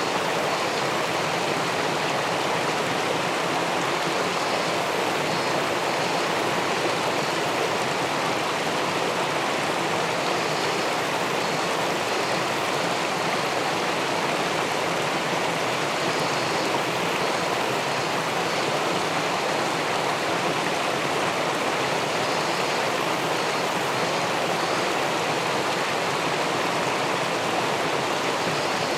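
Steady rushing of river water flowing over and below a small weir into a pool.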